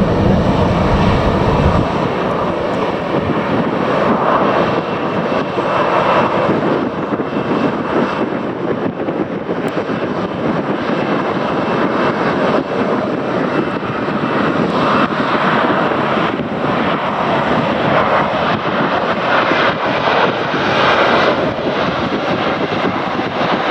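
Jet aircraft engines running loud and steady, a continuous rushing noise whose deep low rumble drops away about two seconds in.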